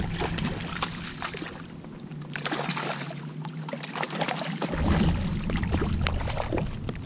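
Rain pattering on and around a kayak: many scattered small ticks and taps, over a low wind rumble on the microphone that drops away for about two seconds midway.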